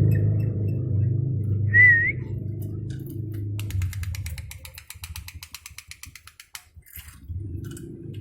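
A short whistle that wavers in pitch about two seconds in, over a steady low hum. Then a rapid run of clicks, and the hum drops away for a few seconds before returning near the end.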